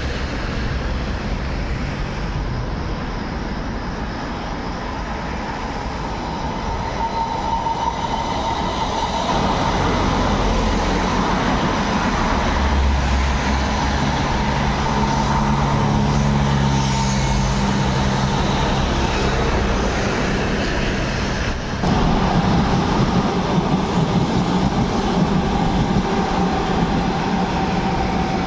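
A train passing on the tracks below: a continuous rolling rumble that builds through the middle, with a low steady hum and a higher steady tone over it. About three-quarters of the way through it suddenly gets louder.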